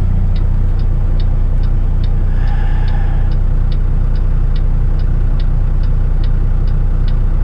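Heavy truck's diesel engine running low and steady in the cab, with the turn-signal indicator ticking evenly about two and a half times a second.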